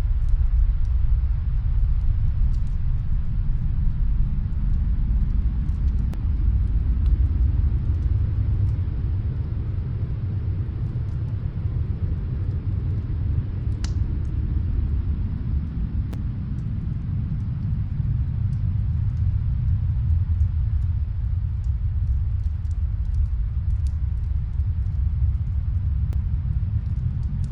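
Steady low rumble of snowstorm wind, with faint scattered fireplace crackles, one sharper pop about halfway through.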